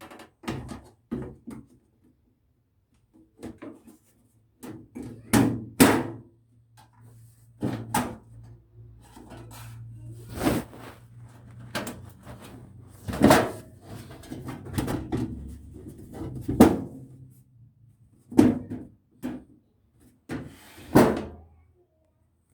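Irregular knocks, clunks and clicks of a desktop computer case being handled as its panels and covers are fitted back in place, with a faint low hum in the middle stretch.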